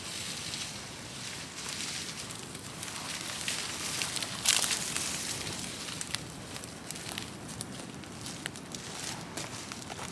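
Large brush-and-wood bonfire burning, with a steady hiss and irregular sharp crackles and pops. A louder flare of hiss and crackling comes about four and a half seconds in.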